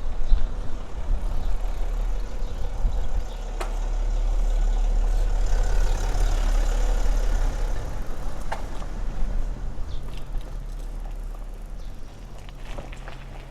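Wind rumbling on the microphone of a moving bicycle. A road vehicle passes, its noise swelling to a peak about halfway through and then fading, with a couple of sharp clicks.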